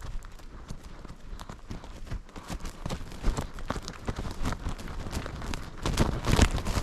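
Footsteps crunching and rustling through brush and grass, an irregular run of short crackling steps that grows busier and louder near the end.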